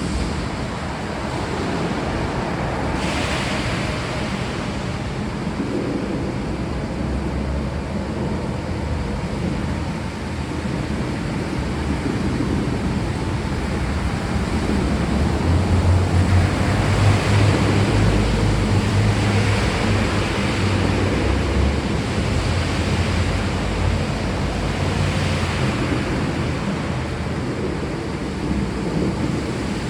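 Steady rain hissing without a break. About halfway through, a long, low rumble of thunder swells up and then fades.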